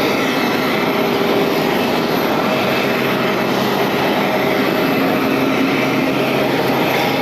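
Loud, steady aircraft ramp noise: a constant hiss and hum with several held tones and no change.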